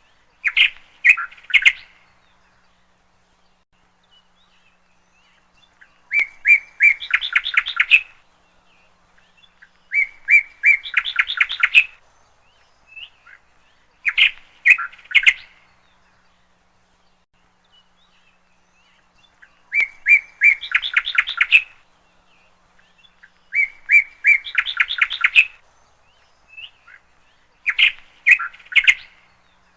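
Bird song: short chirping and trilling phrases every few seconds with quiet gaps between them, the same sequence of phrases coming round again about every 14 seconds.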